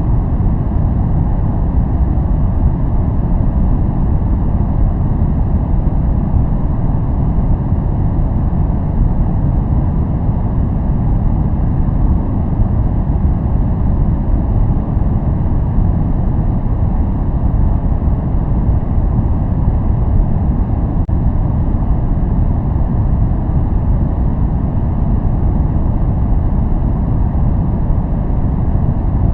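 Steady noise played for relaxation and focus, sold as white noise: a constant, deep, even rush with most of its weight in the low end and little high hiss, unchanging throughout.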